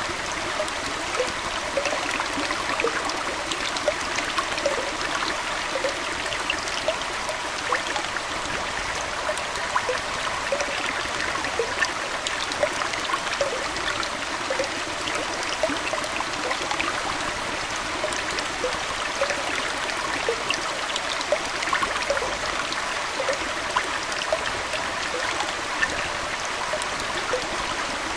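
Aquarium water flowing and trickling steadily, like a small indoor stream, with a constant patter of tiny splashes.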